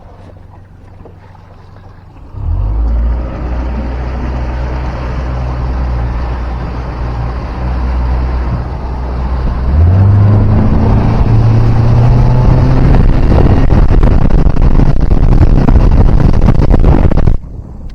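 Boat's outboard motor starting suddenly and running steadily, then throttling up to a higher, louder pitch about ten seconds in, and cutting off abruptly near the end.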